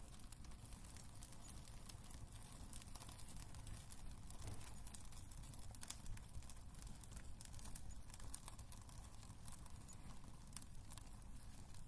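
Wood fire burning in a fireplace, a steady low rumble under frequent small crackles and pops, with one sharper pop about six seconds in.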